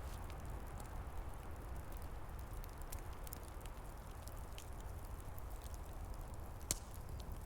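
Wood fire crackling with scattered small pops and one sharper pop near the end, over a steady low rush of wind.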